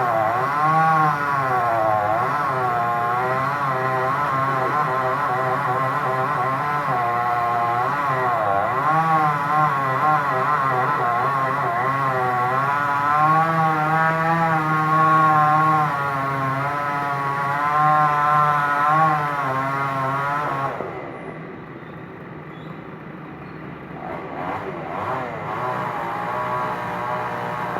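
Excavator engine running with its pitch rising and falling over and over as the load changes. It drops back to a quieter idle about 21 seconds in, then builds up again near the end.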